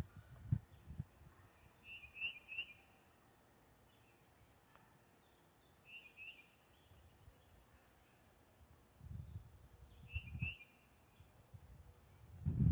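A bird calling three times, a short chirping call about every four seconds. Low rumbles come and go underneath, near the start and again after about nine seconds.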